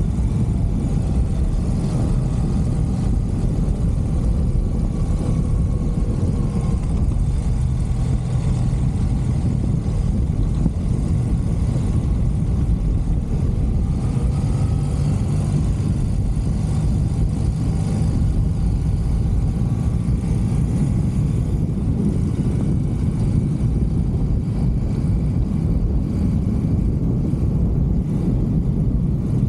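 1983 BMW R100CS air-cooled boxer twin running under way with its carburettor mixture screws freshly adjusted. The engine note rises and falls gently over a heavy, steady low rumble.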